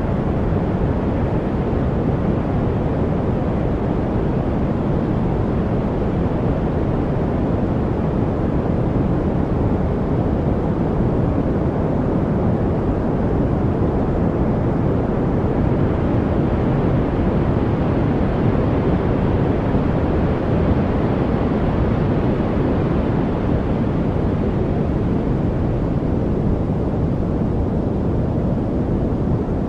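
Steady, continuous noise from a white-noise study track. It is weighted toward the low end, giving a deep, even rush with no chirps, clicks or changes in rhythm.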